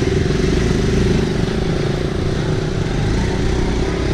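Motorcycle engine running as the bike pulls away, its pitch beginning to rise near the end.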